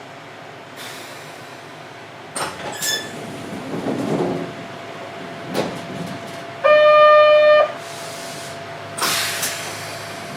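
Inside a standing Sangi Railway Hokusei Line narrow-gauge passenger car: a steady hum with a few knocks, then a one-second buzzer tone, then a burst of air hiss, typical of the door-closing warning and the doors' air release before departure.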